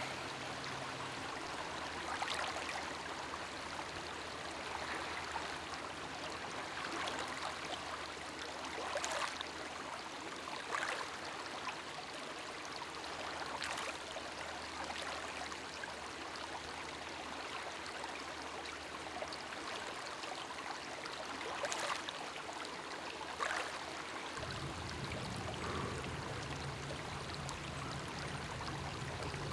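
Steady rush of running water, even and unbroken, with a few faint short ticks scattered through it.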